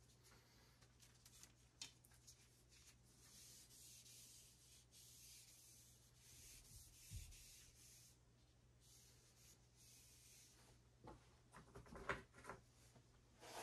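Faint rubbing strokes on a Port Orford cedar arrow shaft, with a few light knocks and clicks near the end.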